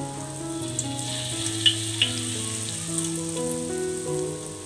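Tofu fritter batter deep-frying in hot oil in a wok: a steady sizzle with fine crackling and two sharp clicks about two seconds in. Soft background music with held notes plays underneath.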